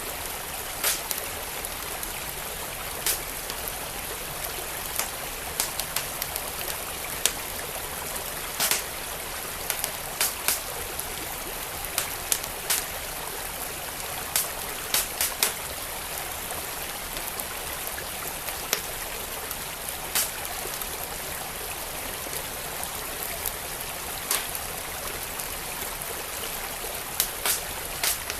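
Wood fire crackling, with irregular sharp pops and snaps, over the steady rush of a flowing stream.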